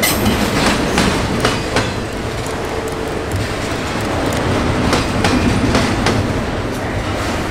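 A train rolling past, its wheels clicking irregularly over the rail joints, several clicks a second, above a steady rumble.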